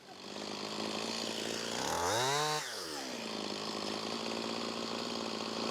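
Chainsaw running, revving up and back down once about two seconds in, then running at a steady pitch.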